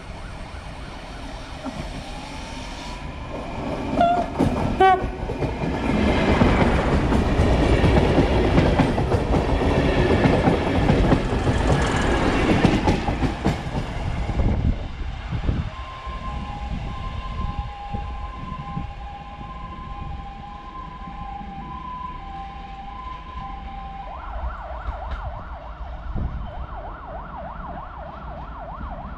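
SN84 diesel multiple unit passing close by at speed. It gives a short horn blast about four seconds in, then rumbles and clatters past for about ten seconds before fading away. After it has gone, two steady tones hold for several seconds, then give way to a buzzing, repeating tone.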